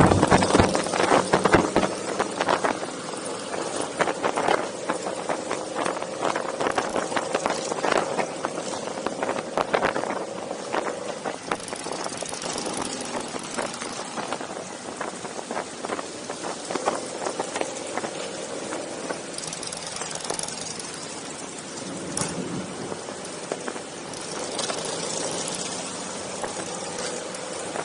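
Motorcycle engines running in a group ride, a steady engine hum broken by many short crackles and knocks, loudest in the first couple of seconds.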